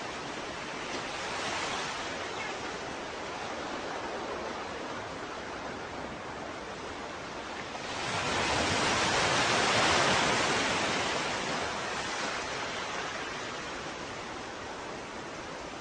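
Ocean waves: a steady wash of surf, with a small swell early and a larger wave surging about halfway through, then slowly receding.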